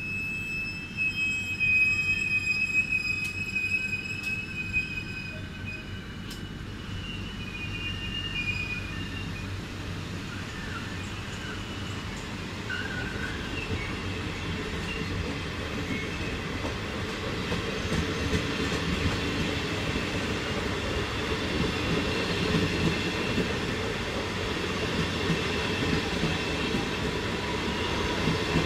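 Regional push-pull train pulling out past the platform, pushed by an E464 electric locomotive. A high squeal from the wheels or running gear, with a few sharp clicks, comes in the first few seconds. Then the steady rumble and rattle of the coaches rolling by grows louder as the locomotive nears.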